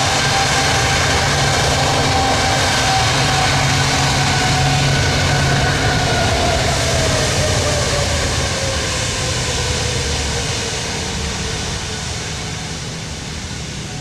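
Jet airliner engines running as the aircraft moves past. A steady whine slides down in pitch over several seconds and the noise fades toward the end.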